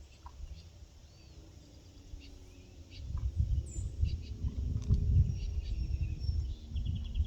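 Faint outdoor ambience with soft, short high-pitched chirps. From about three seconds in, a louder low, uneven rumble joins in.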